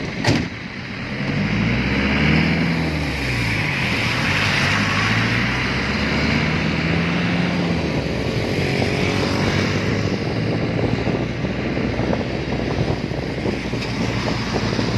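A motor vehicle's engine, its pitch rising and falling several times, over steady road and wind noise. A sharp click comes just after the start.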